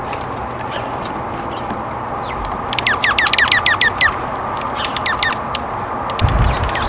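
Wild birds chirping: a quick run of about eight falling chirps about three seconds in, a few more a second later, and scattered short high chirps, over a steady background hiss. A low rumble starts near the end.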